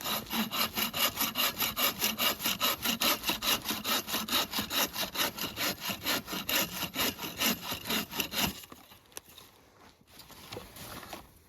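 Hand saw cutting through wood in quick, even back-and-forth strokes; the sawing stops about eight and a half seconds in.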